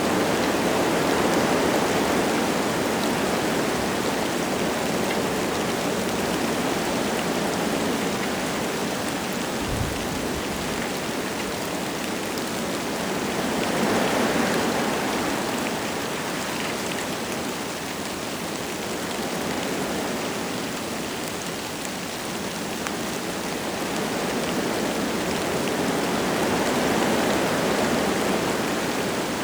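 Wind gusting through forest trees with light rain falling: a steady rushing that swells and eases slowly. A single brief low thump about ten seconds in.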